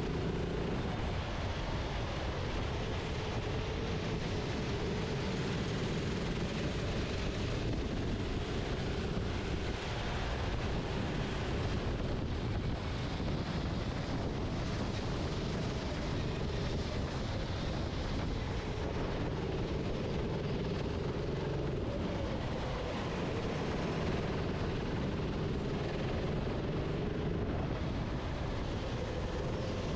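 Racing kart's engine heard from onboard, running continuously with its pitch rising and falling as the driver works the throttle through the corners, with wind noise on the microphone.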